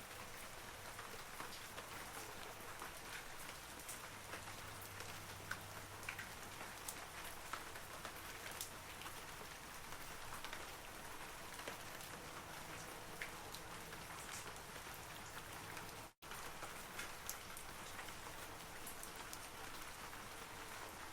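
Steady rain falling on forest trees: an even hiss with many scattered, sharper drops striking close by. The sound cuts out completely for a split second about three-quarters of the way through, then resumes.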